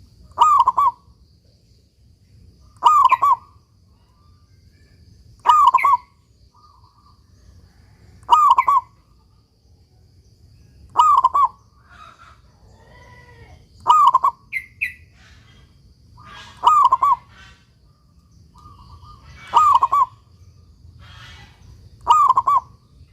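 Zebra dove (perkutut) cooing, repeating its short song phrase about every two and a half to three seconds.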